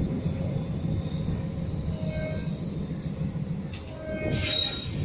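Locomotive rolling slowly through a rail yard with a steady low rumble. A brief squeal of steel wheels on the rails comes about two seconds in, and a louder, shriller squeal with a hiss comes near the end.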